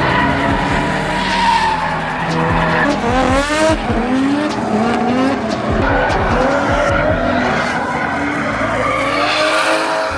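Drift car engine revving hard, its pitch climbing and dropping several times as the throttle is worked, with tyres screeching as the car slides.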